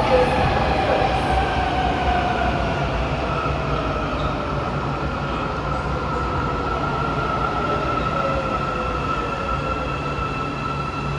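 MRT Putrajaya Line metro train pulling into the station and slowing, its motors whining in several slowly falling tones over a steady rumble from the wheels and rails.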